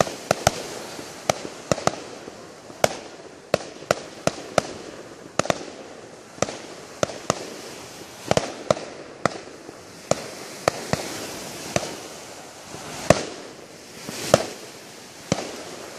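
Fireworks going off: a string of sharp bangs and cracks at irregular intervals, with a few heavier booms trailing into an echo near the end.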